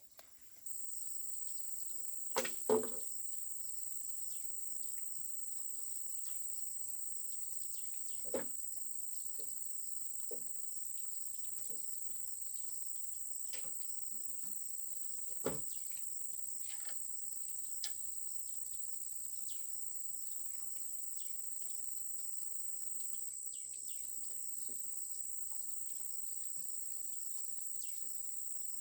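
Steady high-pitched insect drone, with a few scattered sharp snaps or knocks, the loudest a couple of seconds in and another near the middle.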